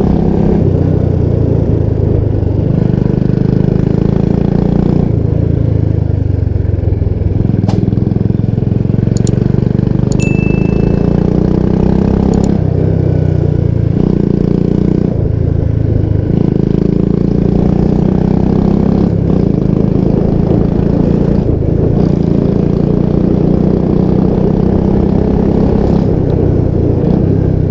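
Royal Enfield Bullet 350 Classic's single-cylinder engine running loud through a modified 'Punjabi dhol' aftermarket exhaust while riding. The engine note swells and eases every couple of seconds as the throttle is worked.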